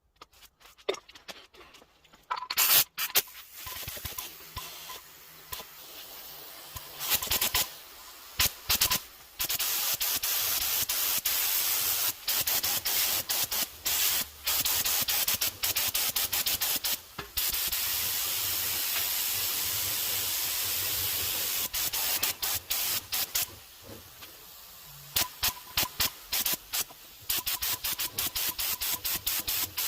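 Spray coating hissing out of a nozzle as a primer/sealer coat goes onto a steering wheel. It comes in many short bursts and one long pass of about twelve seconds. A few sharp knocks sound near the start.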